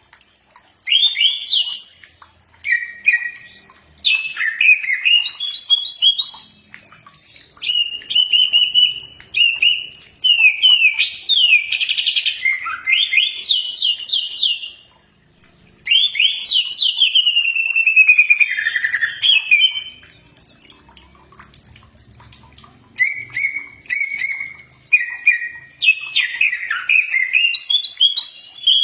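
Cucak ijo (green leafbird) singing: bouts of rapid, varied whistled phrases and quick rising and falling sweeps, with short pauses between them and a longer lull about two-thirds of the way through.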